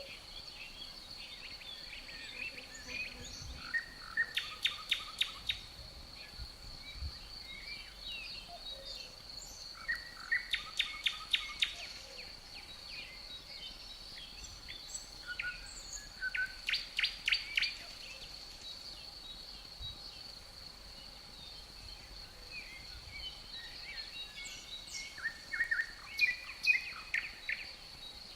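Birdsong: a bird sings four short bursts of rapid repeated notes, each lasting a second or two, over a steady high-pitched insect drone.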